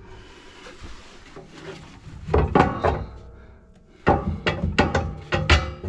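Knocks and scraping of hard parts being worked inside a wood-burning stove as it is stripped down. A soft rubbing stretch comes first, then two bursts of clattering knocks, the first about two seconds in and the second from about four seconds in.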